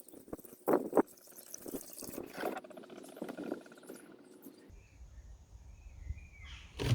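Coolant glugging and gurgling as it is poured from a large container into a Ford Mondeo Mk4 1.8 TDCi's coolant reservoir, with air coming up out of the freshly flushed cooling system. About two-thirds of the way through, the gurgling gives way to a low steady rumble.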